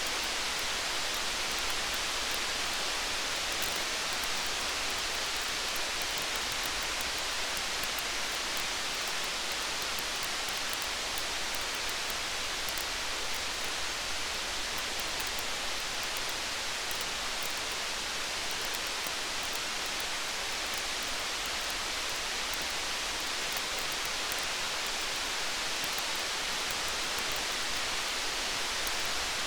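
Steady rain hiss with fine, scattered crackles of a campfire mixed in.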